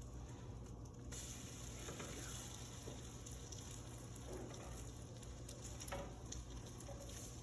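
Egg-dipped bread slices sizzling in an electric frying pan, the hiss coming up about a second in and continuing steadily, with a few faint clicks.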